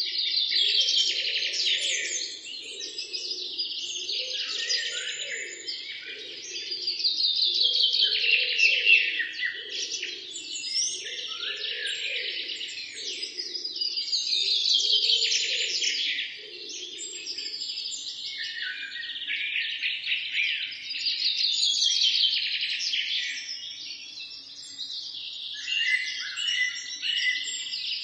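Songbird singing, repeating a trilling, chirping phrase of about two seconds roughly every six seconds, with a fainter low pulsing hum underneath through the first half.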